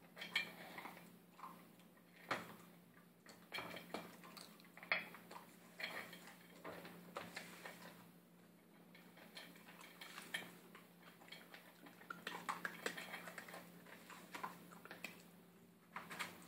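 Puppy eating dry food from a bowl: irregular clinks and knocks of kibble and muzzle against the bowl, with crunching.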